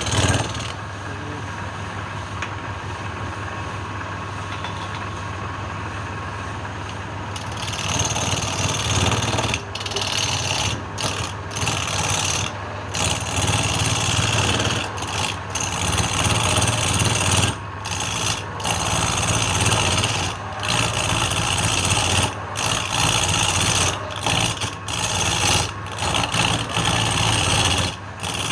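Wood lathe motor running steadily, with a turning tool cutting the spinning wood from about eight seconds in, a scraping hiss that breaks off briefly again and again as the tool is lifted and set back on the work.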